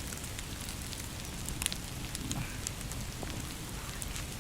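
Open campfire crackling: scattered sharp pops and snaps over a steady hiss.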